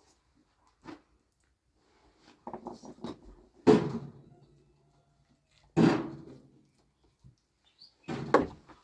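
A series of sharp knocks of hard objects being handled and set down. A few light taps are followed by two loud knocks, each fading over about half a second, and a quick cluster of knocks near the end.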